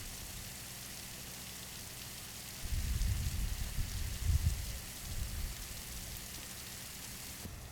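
Wind gusting on the microphone, rumbling for a couple of seconds about three seconds in, over a steady hiss.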